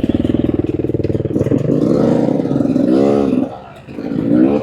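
Beta 300 RR two-stroke dirt bike engine running under throttle, with a rev that rises and falls about three seconds in, a brief drop as the throttle is closed, and another rising rev near the end.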